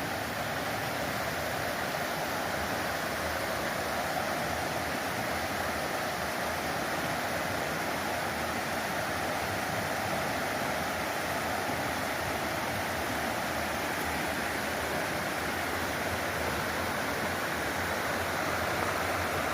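Steady rushing of a stream or river, an even wash of water noise with no distinct splashes.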